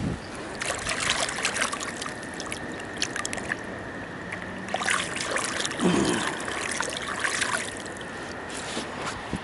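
Rain pattering and dripping, with two spells of dense crackling drops, one about half a second in and one about five seconds in, over a faint steady high tone.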